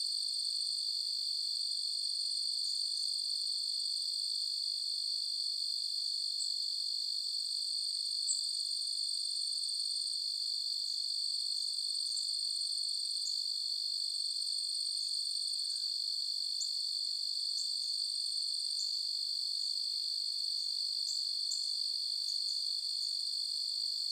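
Crickets trilling in a steady, unbroken high-pitched chorus, with scattered short chirps over it.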